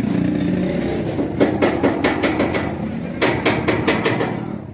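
Two quick runs of hammer blows, about six a second, over a steady low engine drone.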